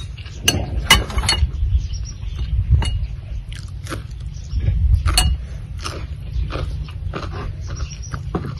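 Close-up eating sounds: biting into fresh cucumber slices and chewing, with crackly mouth noises and a few sharp clicks and clinks of spoons on plates and bowls, the loudest about a second in and again about five seconds in. A steady low rumble runs underneath.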